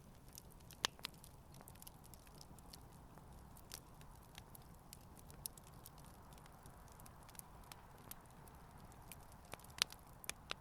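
Campfire burning gently: wood crackling in many small scattered ticks over a low steady hiss, with two sharper pops, one about a second in and one near the end.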